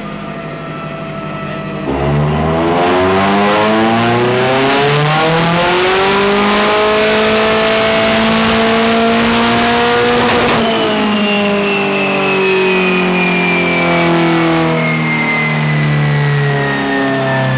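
Turbocharged Nissan SR20DET four-cylinder in a drift car, run at full throttle on a chassis dyno. It sits at a steady low speed, then about two seconds in it goes hard on the throttle and the revs climb steadily for about eight seconds. The throttle is then lifted, and the revs fall slowly while a high whine falls away.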